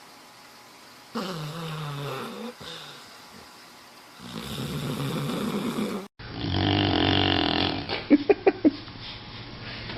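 Sleeping dogs snoring. About a second in comes a wavering, pitched snore, and around four seconds a noisy snoring breath. Then a different dog gives a longer, louder snore that ends in four quick, sharp sounds.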